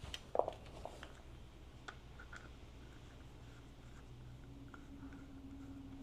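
Small metal parts and a hand tool handled during motorcycle disassembly: one sharp knock about half a second in, then a few light clicks.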